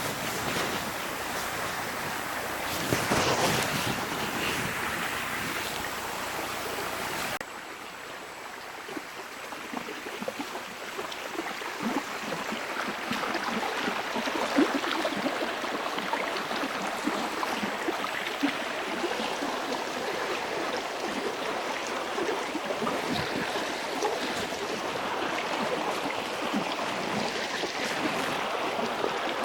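Stream water running, a steady rushing hiss with small splashes and crackles. About seven seconds in the sound changes abruptly and becomes quieter and duller.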